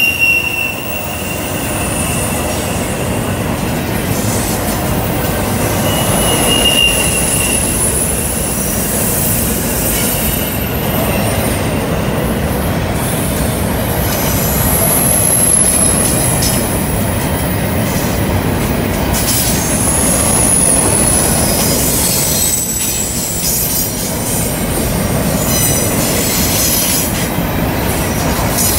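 Double-stack intermodal freight cars rolling past on a curve: a steady rumble of steel wheels on rail, with thin high-pitched wheel squeals that come and go several times as the flanges rub the curved rail.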